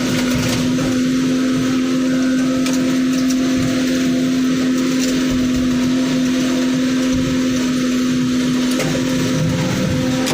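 A motor running at a constant speed: a steady drone with a strong, unchanging hum and no rise or fall in pitch.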